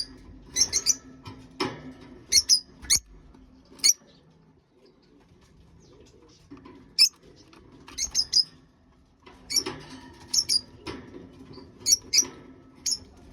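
Pigeons squeaking: short, sharp, high squeaks, often in quick groups of two or three, with a lull partway through, over a faint low steady hum.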